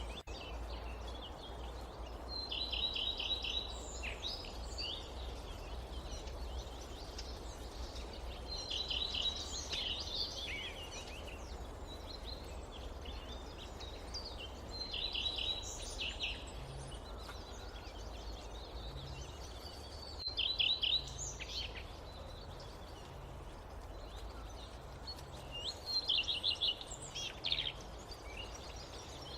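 A songbird singing short phrases of rapid repeated notes, five times, about every six seconds, over a steady low rumble of background noise.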